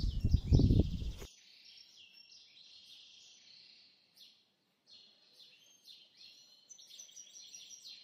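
Small birds chirping and singing in short, high repeated calls. During the first second a loud low rumble buffets over them and then cuts off abruptly, leaving the birdsong faint.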